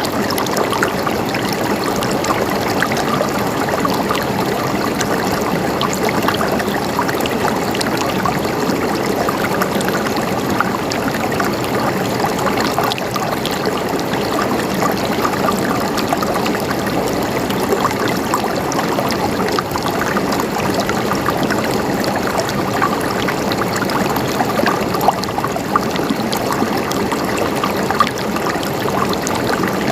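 Water running and gurgling steadily over rocks, like a small stream, with many small splashes throughout.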